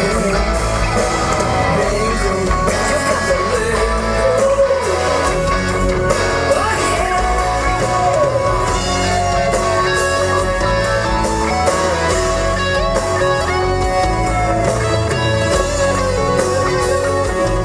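Rock music: an instrumental passage in which a lead guitar plays gliding, bending notes over the band.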